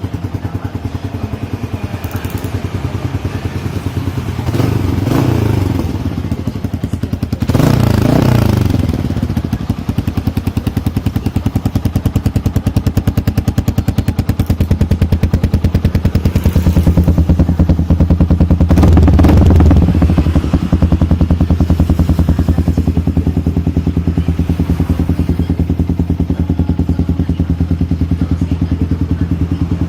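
Yamaha motorcycle's single-cylinder engine running through an aftermarket racing exhaust, idling with a rapid pulsing beat and revved in short blips about four, eight and nineteen seconds in.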